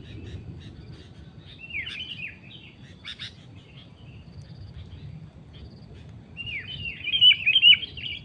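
Sooty-headed bulbuls (kutilang) chattering in quick runs of falling chirps: one burst about two seconds in and a louder, longer run near the end, over fainter short chirps.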